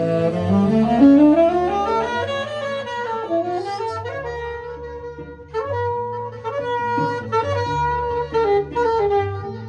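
Live saxophone melody over sustained low cello notes, the saxophone climbing in a quick run about a second in and then playing held, singing phrases.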